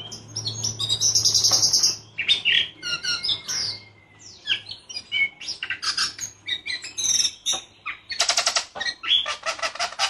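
White-rumped shama (murai batu) singing a varied song of clear whistles and harsh chirps, breaking into a fast rattling roll of repeated notes near the end.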